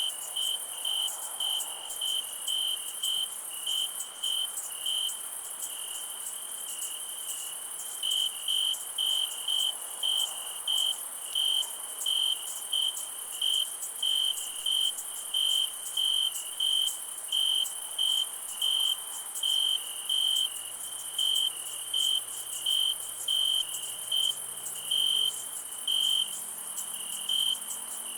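A cricket chirping in an even rhythm, about one and a half chirps a second, over a continuous high insect drone. The chirping pauses for a few seconds early on, then resumes.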